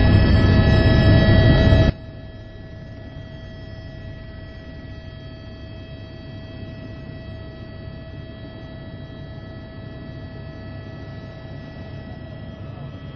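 Helicopter in flight heard from the cabin: steady engine and rotor noise with a constant whine of several fixed tones. Louder, denser sound cuts off abruptly about two seconds in, leaving the steady whine and noise.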